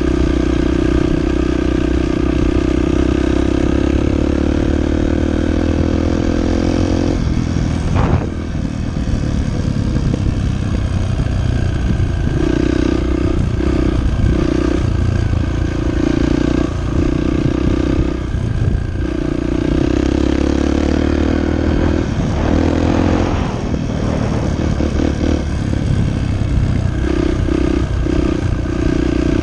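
Dirt bike engine running while being ridden: it holds a steady note that slowly rises, drops off about seven seconds in with a sharp knock, then comes on and off repeatedly as the throttle is opened and closed.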